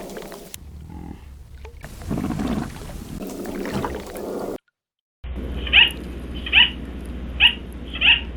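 Animal calls: a low, rough call in the first half, then, after a brief gap, a high call that falls in pitch, repeated four times about a second apart over a low hum.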